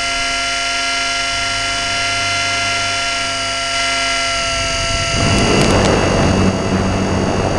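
E-flite Blade 400 electric RC helicopter heard from its onboard camera: the motor and drive gears give a steady, many-toned whine. About five seconds in a louder rushing noise with a low hum joins it.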